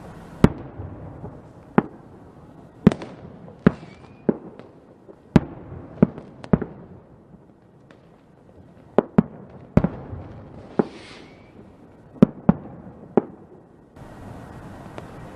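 Fireworks going off: about a dozen sharp bangs at irregular intervals, each with a short echo, with a brief lull midway.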